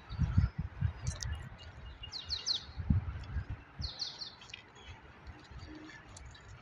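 Birds chirping in a few short runs of quick, high notes, over dull low thumps that are louder than the birdsong.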